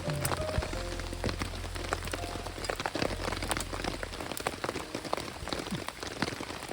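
Heavy rain falling, a dense irregular patter of drops hitting a surface. Soft background music plays under it for the first couple of seconds.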